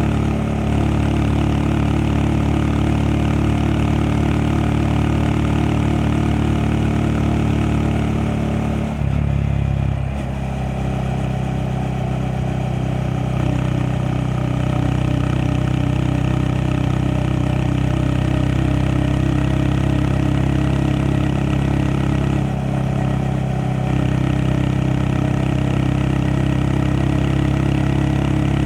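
Honda Monkey 125 sidecar rig's single-cylinder engine running steadily under way. Its note changes with a brief dip in level about nine seconds in, and shifts again slightly a little before the end.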